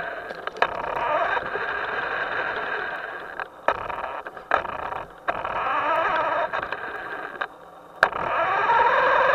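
A small motor running in several bursts that start and stop abruptly, with sharp clicks in the gaps between them.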